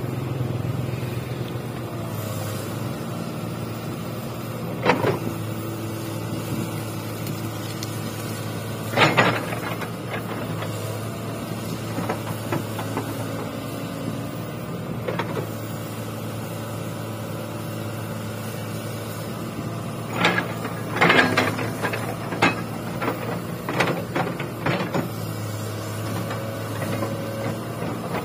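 Excavator's diesel engine running steadily, with sharp knocks now and then: a single one about five seconds in, another around nine seconds, and a rapid cluster of them in the last third.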